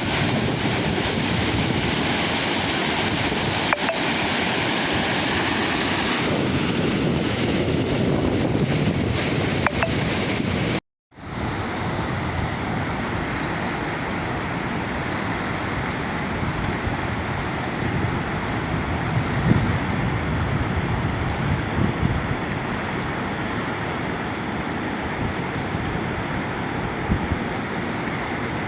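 Steady rush of flowing, falling water, a dense unbroken noise. It cuts out briefly about eleven seconds in, then returns slightly duller.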